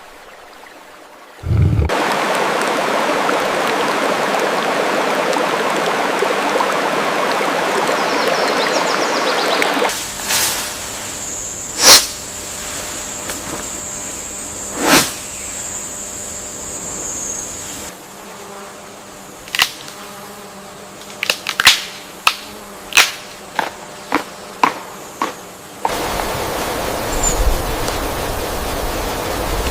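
Edited nature ambience in several sections: a steady rushing hiss, then a high thin buzz with a few sharp cracks, then a quick run of sharp clicks and snaps, and the hiss returns near the end.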